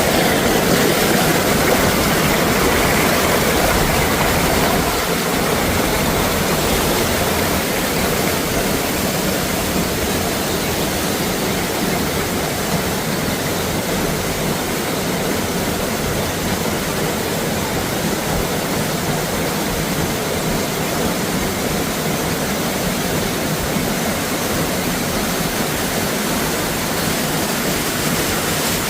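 Steady rushing of running water, a stream or waterfall, slightly louder for the first few seconds and then even.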